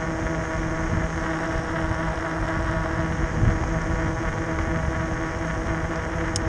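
Bafang 1000 W electric bike motor running under power at speed, giving a steady whine over a low rumble of wind and riding noise.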